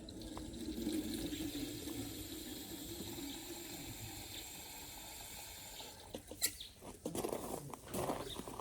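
Tap water running steadily for about six seconds, then stopping; a few knocks and handling noises follow.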